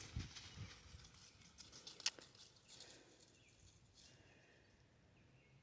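Near silence outdoors: faint rustling that fades out early, one sharp click about two seconds in, and faint short chirps later on.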